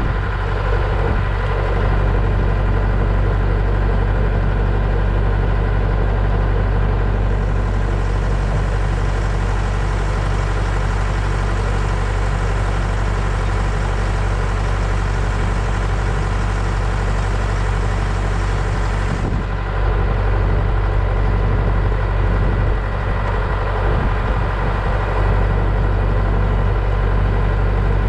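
Case 680B backhoe engine running steadily at idle. A higher hiss joins in about a quarter of the way through and cuts off suddenly about two-thirds of the way through.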